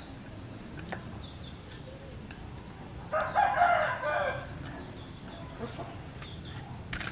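A bird call, loud and about a second long, about three seconds in, over a few faint clicks from the bicycle's multi-speed freewheel being turned by hand onto the rear hub.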